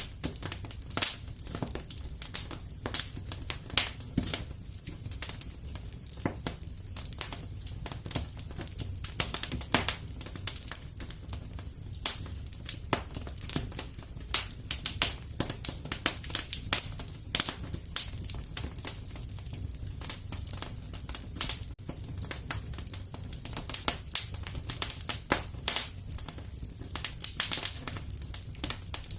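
Wood fire crackling in a fireplace: frequent irregular pops and snaps over a low steady rumble.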